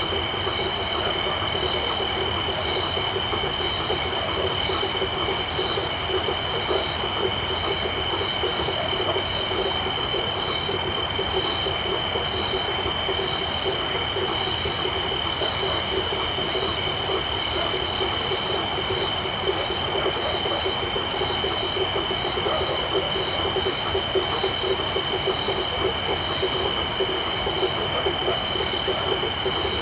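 Dense night chorus of tropical insects and frogs: a steady high insect trill over rapid pulsing calls lower down, with faint regular chirps above, all continuous and even.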